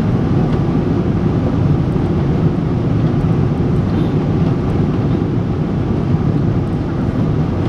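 Steady low rumble inside the passenger cabin of a Japan Airlines Boeing 777-300, the airliner's engine and airflow noise holding even throughout.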